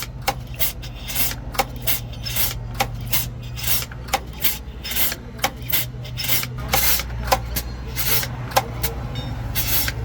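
A hand tool scraping in quick repeated strokes, about two or three a second, over a low steady hum.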